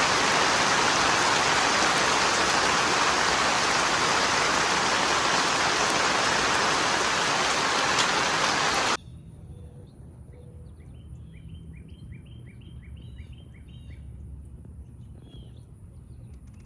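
Heavy rain falling steadily and loudly, cut off suddenly about nine seconds in. Then, much quieter, a bird sings a quick run of about eight repeated falling notes.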